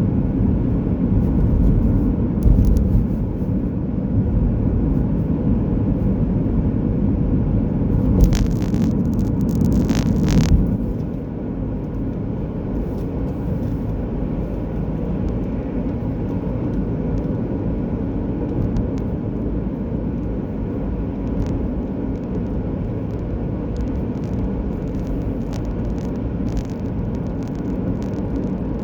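Steady low road and engine rumble of a car being driven, with a brief louder hiss about eight to ten seconds in; after that the rumble settles slightly quieter.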